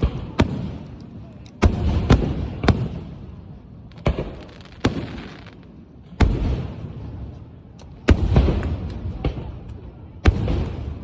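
Aerial fireworks bursting in a series of about ten loud bangs at uneven intervals. Each bang is followed by a rumbling, crackling tail that dies away.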